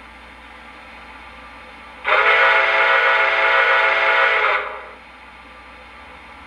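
Steam whistle from an O gauge model steam locomotive's onboard sound system, one steady chime-like blast lasting about two and a half seconds, starting about two seconds in.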